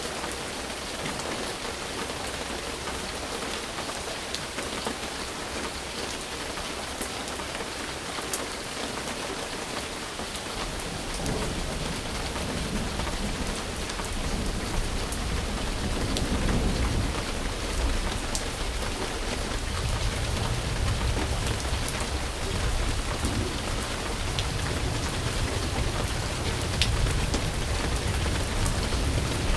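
Steady rain falling, with scattered sharp drop ticks. About a third of the way in, a low rumble of thunder rolls in and grows stronger through the second half.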